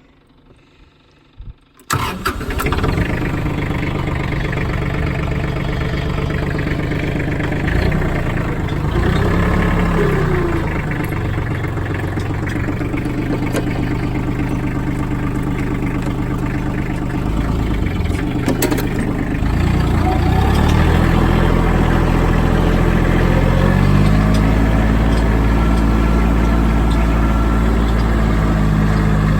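Iseki TG5330 compact tractor's diesel engine starting suddenly about two seconds in, then running steadily. Later its pitch steps up twice and holds at a higher engine speed.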